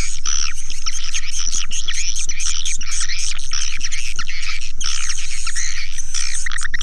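Swiftlet lure call recording: a dense, continuous chorus of swiftlet twitters and chirps over a steady low hum. Near the end a rapid run of evenly repeated short chirps begins.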